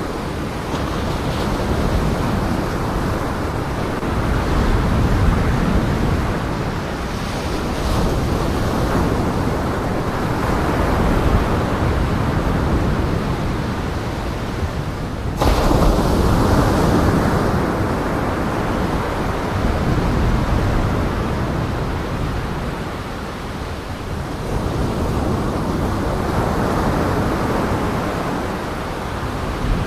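Steady rushing outdoor noise that swells and fades every few seconds, with a sudden jump in loudness about halfway through.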